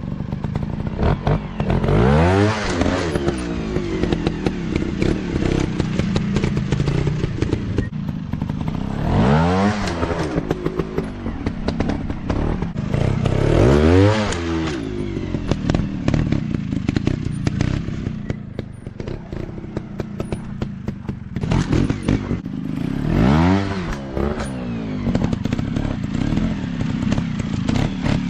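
Dirt bike engines running, with throttle blips that rise in pitch and drop back four times, under a steady clatter of engine and chassis noise.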